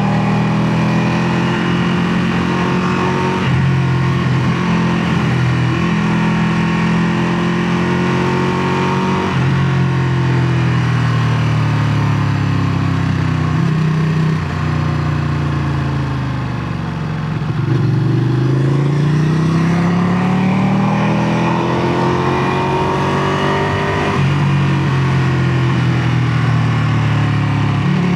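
Ducati Panigale 959's L-twin engine accelerating through the gears. Its note climbs and drops sharply at each shift several times, eases off to its lowest about halfway through, then climbs again.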